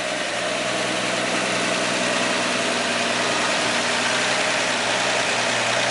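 1959 Ford ice cream truck's engine idling steadily.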